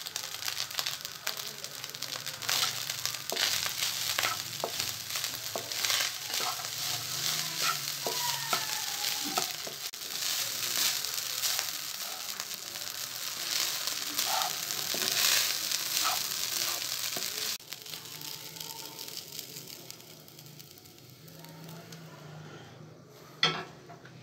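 Fried rice sizzling in a hot pan while a wooden spatula stirs and scrapes through it, with many short scraping strokes. The sizzling cuts off suddenly about 17 seconds in, leaving a much quieter background with one sharp click near the end.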